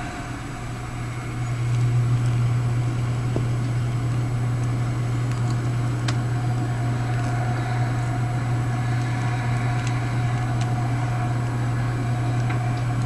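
Heavy truck engine running steadily, a low hum that grows louder about a second and a half in and then holds.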